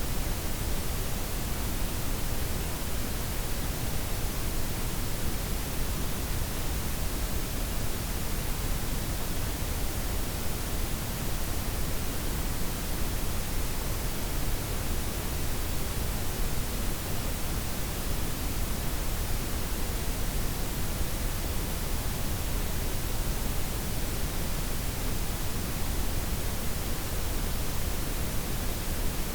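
Steady synthetic noise blend, white noise layered with pink and brown noise, an even unchanging hiss with a full low rumble.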